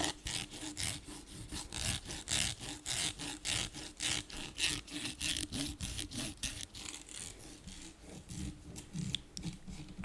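Fast ASMR scratching on an object's surface: a quick, even run of short scratchy strokes, about four a second.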